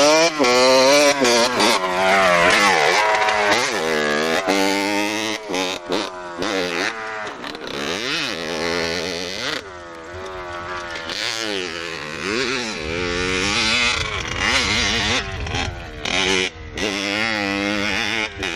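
Motorcycle engine being ridden hard, revving up and easing off again and again, its pitch climbing and dropping every second or two as the throttle opens and closes. It grows a little fainter around the middle, then louder again.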